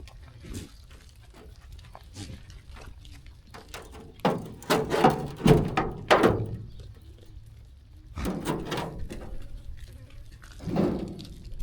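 Sheep bleating: a cluster of several calls from about four seconds in, another around eight seconds and one near the end, over scattered soft knocks and clicks.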